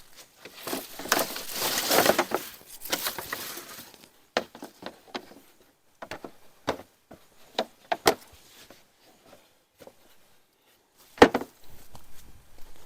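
Handling noises during garden work: a few seconds of rustling, then scattered clicks and knocks, with one sharp knock about eleven seconds in.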